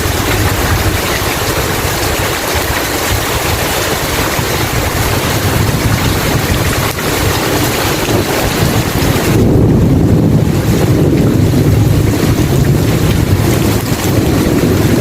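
Heavy rain pouring steadily, with a deep rolling rumble of thunder building about nine seconds in.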